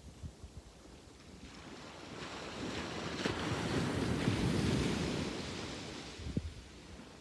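A sea wave breaking and washing up a beach: the rush swells over about three seconds, peaks near the middle, then fades as the water runs back. A few short low thumps of wind on the microphone come near the start and near the end.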